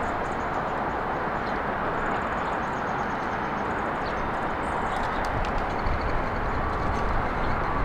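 Steady hiss of road traffic, with faint high bird chirps over it. A deeper vehicle rumble builds near the end.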